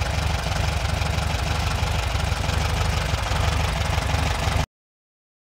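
Volkswagen Beetle's air-cooled flat-four engine idling steadily just after starting, running on an electronic ignition fitted in place of points and condenser. The sound cuts off abruptly near the end.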